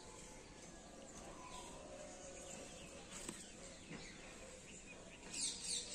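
Faint outdoor ambience with birds chirping. Near the end comes a quick series of high, sharp chirps, the loudest sound here.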